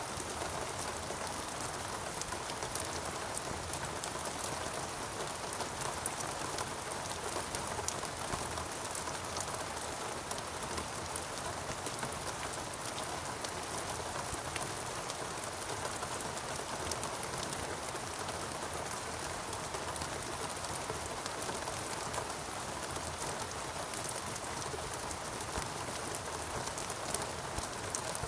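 Steady rainfall, a constant even hiss of rain with many close individual drops ticking through it.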